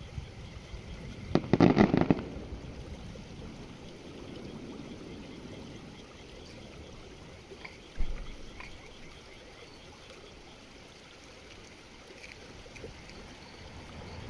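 Fireworks shells bursting overhead: a quick cluster of sharp bangs and crackles about a second and a half in, then a single deep boom about eight seconds in, over a steady rushing background.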